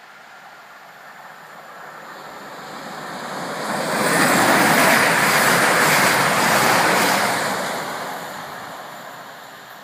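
Class 222 Meridian diesel-electric multiple unit running through the station without stopping: a rush of wheel and air noise that swells over a few seconds, peaks about halfway, then fades away.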